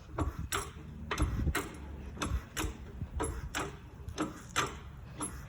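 Floor jack being pumped to lift the rear of a garden tractor, its handle and mechanism clicking with each stroke, about two to three clicks a second.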